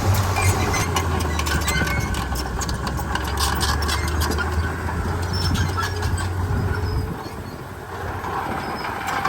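Heavy diesel engine running steadily, with scattered clicking and clatter over it; the low engine note drops away about seven seconds in.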